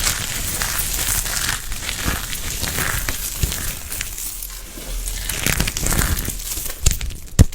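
Crunchy material crackling as it is crushed, with scattered small clicks and one sharp snap near the end.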